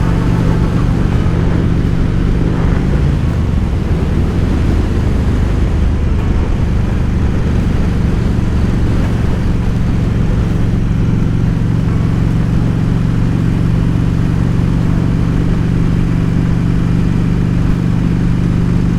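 2007 Harley-Davidson Road King Classic's air-cooled V-twin engine running steadily under way at cruising speed, heard with wind rush on the open bike. The engine note shifts briefly about three seconds in, then holds steady.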